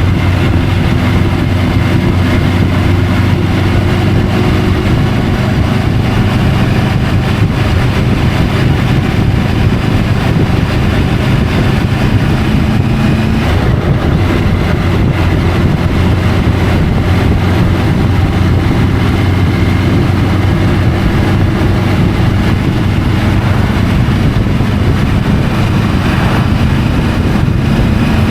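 Triumph Tiger 850 Sport's inline-three engine running at a steady cruise under a constant rush of riding wind, heard from a camera mounted on the moving bike. The engine note shifts slightly in pitch a few times.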